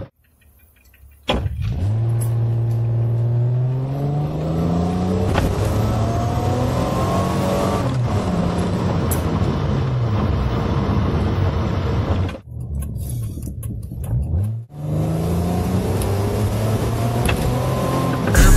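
Car engine, the Toyota 1MZ-FE V6, accelerating, heard from inside the cabin. It starts about a second in, then its pitch climbs, drops back and climbs again several times as it pulls through the gears.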